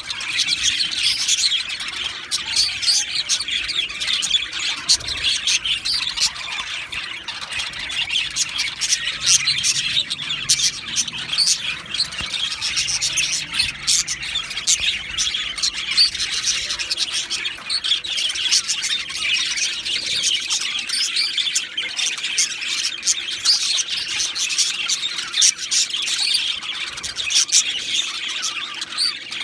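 Budgerigars chattering and warbling without a break, a dense run of chirps, whistles and short clicks from more than one bird.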